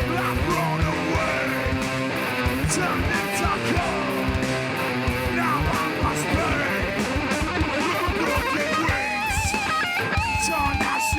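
Heavy band playing live: distorted electric guitars strumming chords over drums. About nine seconds in, a wavering high guitar line comes in over the chords.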